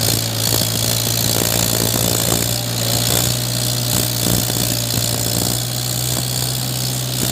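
Mahindra 475 tractor's diesel engine running steadily at an even speed.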